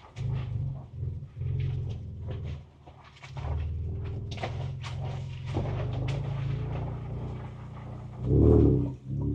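2024 Ford Ranger Raptor's twin-turbo V6 heard from inside the cab, its throttle coming on and off in short pulses as it crawls a rough trail, with scattered knocks and rattles from the body. Near the end the engine swells louder in a brief rev.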